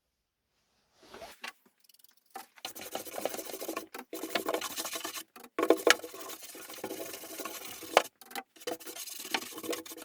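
Rubbing by hand on wood: a dense, scratchy rubbing in stretches, broken by short pauses and a few sharp clicks.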